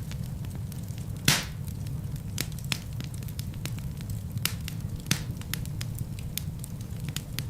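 Wood fire burning, with a steady low rumble and scattered crackles, one louder pop about a second in.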